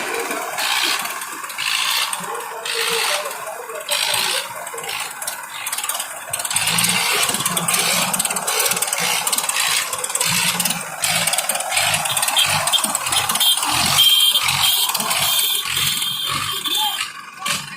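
Tractor diesel engines running hard with a rattle, an uneven low pulsing through a dense hiss of noise.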